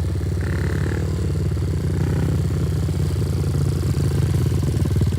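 Small 90cc pit bike engine running at a steady, low speed, getting slightly louder toward the end.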